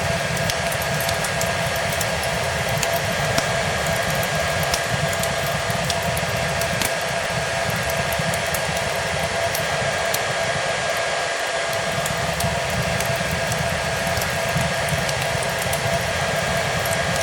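Hair dryer running steadily, a constant rushing hiss with a steady motor whine, layered over a crackling fireplace with scattered small pops and a low rumble.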